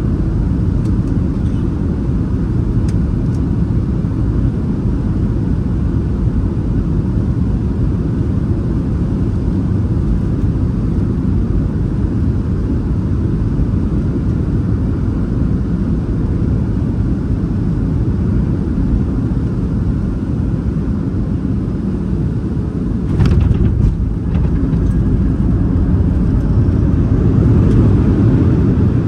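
Boeing 737 cabin noise during the landing approach: a steady low rumble of engines and airflow. Near the end, a sudden brief bump, after which the rumble grows louder.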